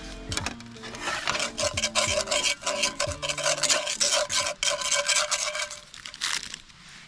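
Rapid, rhythmic rasping strokes, like something being scraped or sawn back and forth, starting about a second in and stopping about a second before the end, over faint background music.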